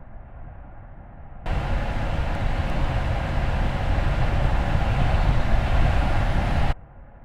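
Car on the move, a steady rush of tyre and wind noise with no clear engine note, cutting in abruptly about a second and a half in and cutting out just as suddenly near the end.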